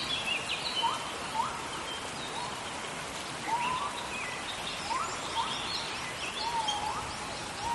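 Steady rainforest rain with repeated animal calls over it: short upward-sweeping calls every second or so, with higher chirps above them.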